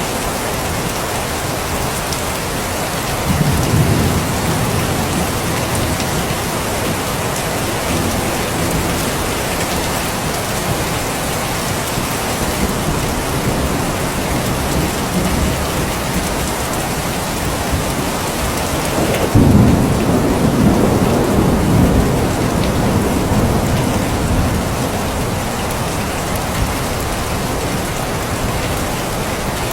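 Steady heavy rain falling. Low rumbles of thunder swell up twice, a shorter one a few seconds in and a longer, louder one past the middle that rolls off over several seconds.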